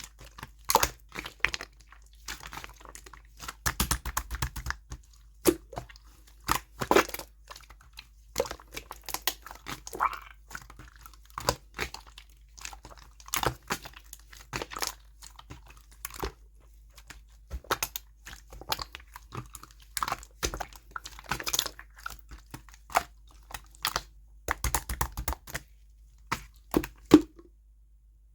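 Clear slime being squished and worked by hand, giving a run of irregular sticky clicks and pops.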